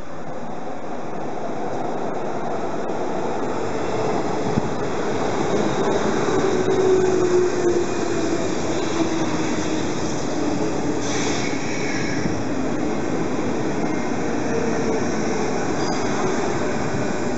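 An orange JR Osaka Loop Line electric commuter train pulls into the station alongside the platform. Its running noise grows over the first several seconds while a motor tone falls in pitch, and a brief high squeal comes about eleven seconds in.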